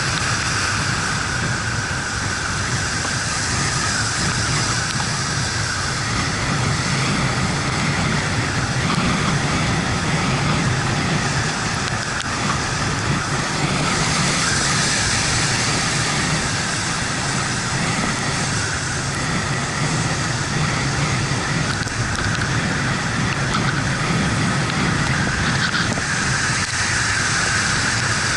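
Yamaha MT-125 motorcycle ridden on a wet road in the rain: steady wind and road noise over the running single-cylinder engine.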